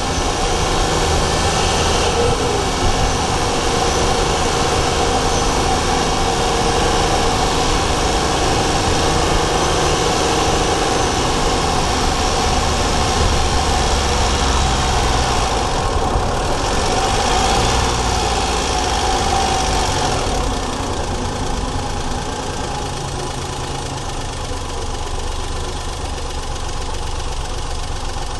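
Daihatsu Charade GTti's turbocharged three-cylinder engine running steadily, heard through a microphone in the engine bay; about two-thirds of the way through it eases off and settles quieter.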